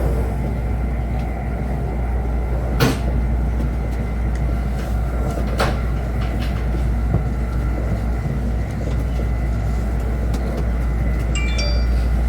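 Steady low rumble and rush of a Chinese high-speed train running at speed, heard inside the passenger cabin. Two sharp knocks come about three seconds apart, and a few brief high tones sound near the end.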